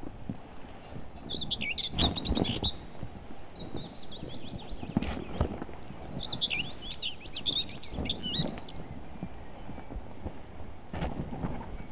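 Songbirds chirping and trilling in woodland, a run of quick high chirps that fades out about nine seconds in, over a steady outdoor background with a few soft thumps.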